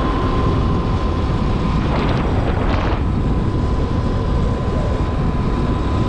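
Heavy wind buffeting the microphone while riding a Sur-Ron X electric dirt bike at speed into a strong headwind, with a steady thin whine running under the rumble.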